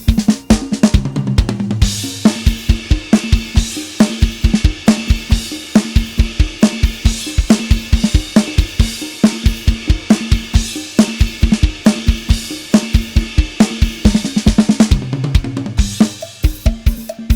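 A drum kit sound set, made to sound like live drums, playing a fast, steady beat of kick, snare and hi-hat with crashing cymbals. Tom fills come about a second in and again near the end.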